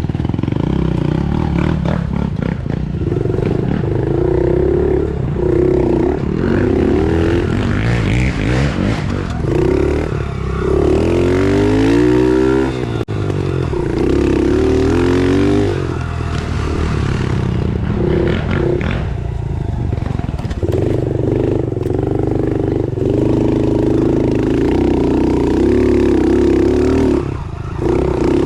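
110cc pit bike's single-cylinder four-stroke engine being ridden, the revs rising and falling repeatedly as the throttle is worked, with a long sweep up and down in pitch around halfway through.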